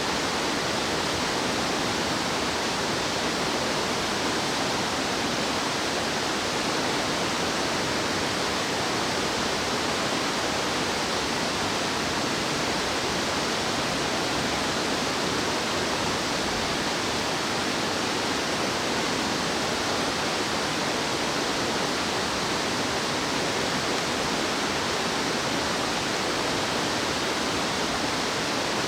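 Fast-flowing mountain stream water rushing, a steady, unbroken rush.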